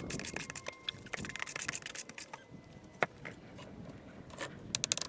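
Rapid scraping and clicking of hand masonry work on stone and lime mortar, sped up by the timelapse. There is a sharp knock about three seconds in and a quick cluster of clicks near the end.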